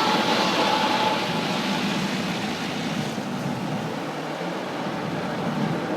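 Automatic car wash working over the car, heard from inside the cabin: a steady rushing of water spray and machinery against the bodywork, easing a little about halfway through.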